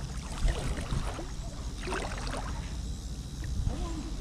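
Water splashing as a hooked fish is reeled in to the bank, with brief splashes about half a second and two seconds in over a steady low rumble.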